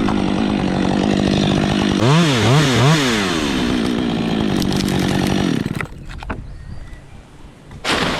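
Chainsaw at full throttle cutting through a big dead gum, its pitch dipping three times about two seconds in as it bogs in the cut, then dropping back to idle around six seconds. A loud sharp crack comes near the end.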